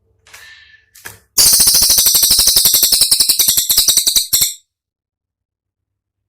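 Cililin songbird giving a loud, rapid rattling trill, a 'tembakan' burst of about fourteen sharp notes a second lasting some three seconds, which starts about a second in and cuts off sharply. A faint short call comes just before it.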